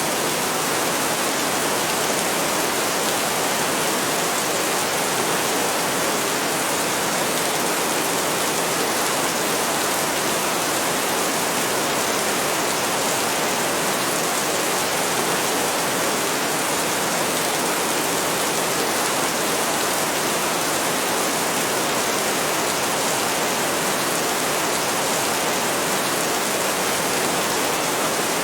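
Heavy rain falling steadily, a dense, even hiss with no let-up and no thunder.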